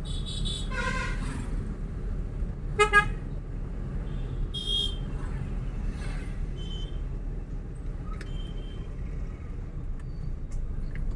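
Car horn honking: a longer honk about a second in, then two short, sharp toots about three seconds in, all over the steady rumble of road and engine noise from a moving vehicle.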